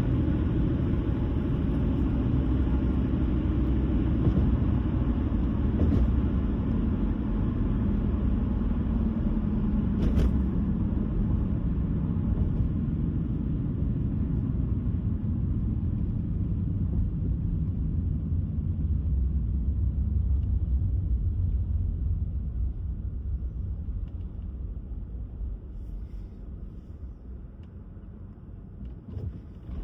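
A car driving on the road: a steady low rumble of tyre and road noise with the engine beneath it. Over the last several seconds it grows steadily quieter.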